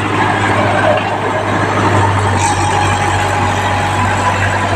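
Tractor diesel engine running steadily at a constant speed, with a deep steady hum.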